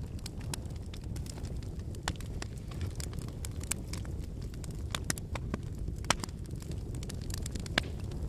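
Wood fire burning: a steady low rush of flame with frequent irregular crackles and pops from the burning logs, two louder pops about six and eight seconds in.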